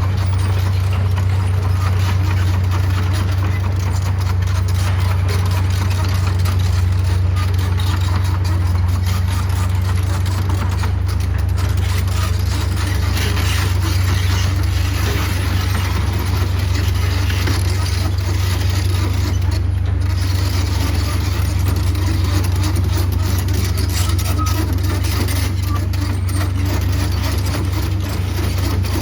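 Heavy equipment diesel engine running steadily, with a strong low drone and a broad mechanical wash over it.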